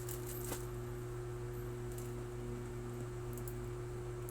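Steady low electrical mains hum, with a few faint light clicks.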